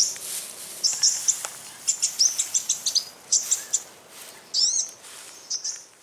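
Small birds chirping: quick runs of short, high chirps, with a pair of swooping notes about two-thirds of the way through.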